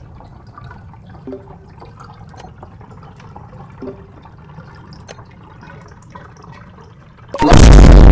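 Quiet low background noise with scattered faint clicks and drips, then near the end a sudden, extremely loud, distorted blast of noise that hits full volume at once: a deliberate ear-splitting loud noise.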